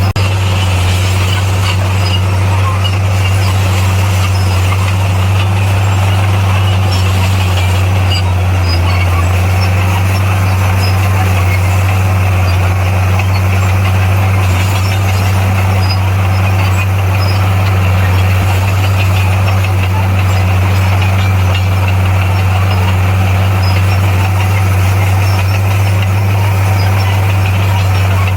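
Bulldozer's diesel engine running steadily under load, a constant low hum with mechanical clatter and noise above it.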